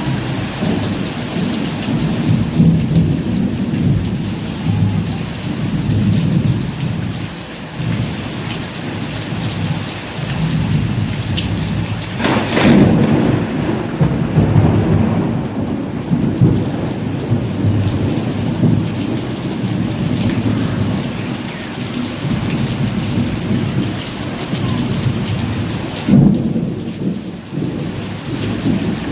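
Steady rain with continuous low rumbling thunder. A sharp thunderclap breaks about twelve seconds in, and another comes near the end.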